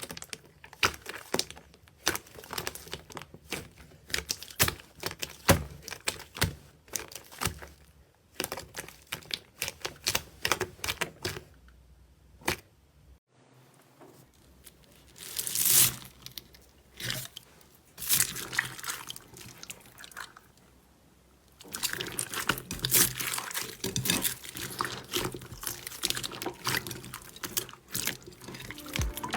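Slime being squeezed and pressed by hand, giving rapid crackling and popping clicks, with two short pauses.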